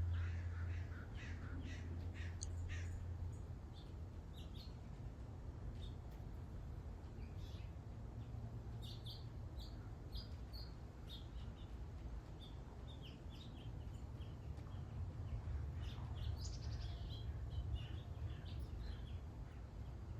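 Wild birds chirping and calling on and off, faint, over a steady low rumble.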